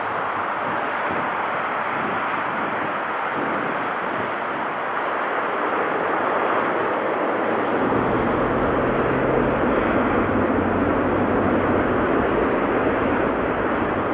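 Jet airliner engines running, a steady rushing noise that grows louder about halfway through as a low hum joins it.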